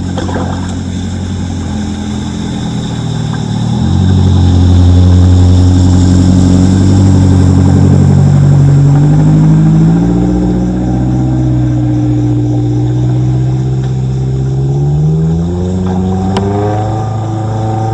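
A vehicle engine accelerating. Its pitch climbs steadily and drops back twice, about ten and sixteen seconds in, like gear changes.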